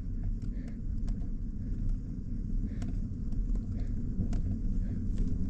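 Steady low wind rumble on the microphone while riding, with a few faint clicks and rattles.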